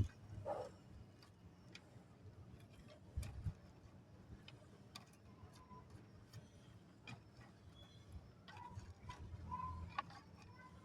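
Sparse, quiet clicks and ticks of dry namkeen snack pieces being picked up and dropped during sorting, with a few louder knocks about three seconds in.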